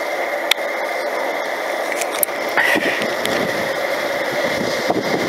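A diesel train approaching along the line, a steady rumble and hiss that slowly grows louder, with a thin high ringing over it. A sharp click comes about half a second in.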